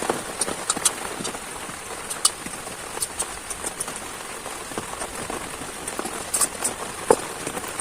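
Heavy rain falling steadily, with scattered sharp taps of individual drops striking close by, the loudest near the end.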